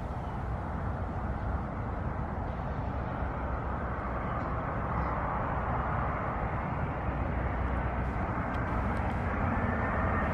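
Jet airliner approaching overhead, its engine noise a steady rush that slowly grows louder.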